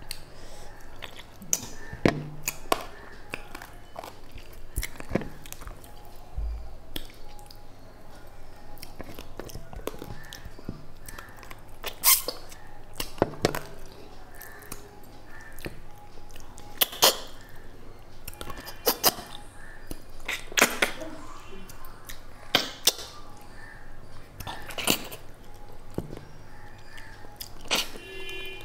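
Close-up eating sounds of a person eating fish head by hand: wet chewing, lip smacks and sucking, with sharp clicks every second or two.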